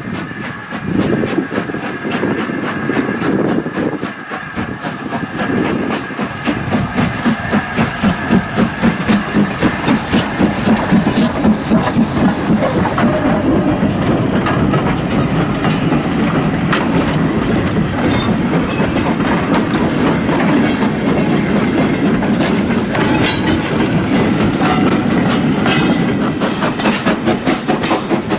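Steam-hauled train running past, with a steady rhythmic beat of about three or four pulses a second that grows louder in the first few seconds.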